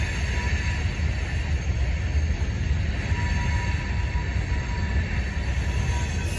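Freight train of hopper cars rolling across an elevated steel trestle: a steady low rumble, with a faint thin squeal coming and going.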